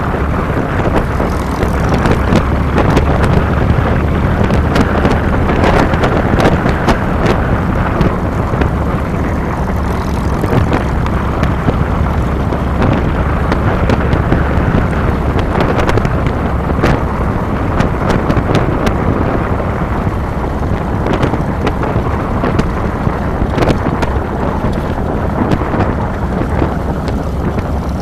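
2007 Harley-Davidson Fat Boy's V-twin engine running steadily under way, with wind buffeting the handlebar-mounted microphone and a few sharp knocks.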